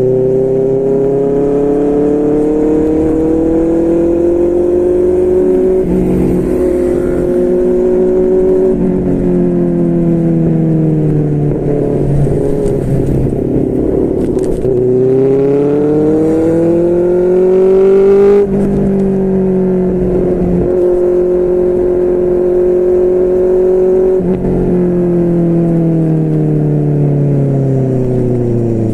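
QJMotor SRK600's inline-four engine breathing through a Yoshimura R11 aftermarket exhaust while the bike is ridden: the engine note climbs as it accelerates, then drops at each gear change, several times over. About two thirds of the way through the revs fall sharply as the throttle is closed, then build again.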